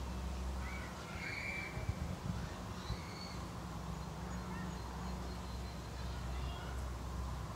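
A few short bird calls about one to three seconds in, over a steady low rumble.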